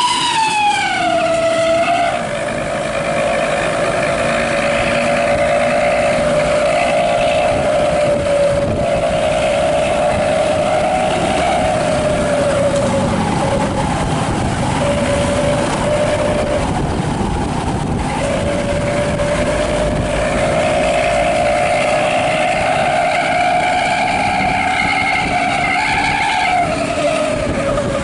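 A bus's 'wolf' howling exhaust (knalpot srigala) gives a long, sustained howl. Its pitch drops about a second in, holds with a few short breaks in the middle, then rises and falls again near the end.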